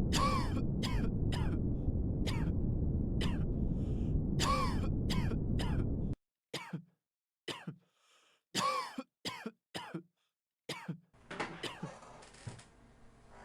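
Repeated short coughs and throat clearing, as from people in a test room, over a steady background rumble that cuts off about six seconds in. The coughs keep coming after it stops, and a faint ticking room noise starts near the end.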